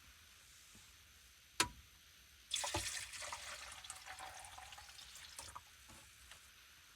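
A single knock, then water running from a small tap into a sink for about three seconds, starting abruptly and tailing off.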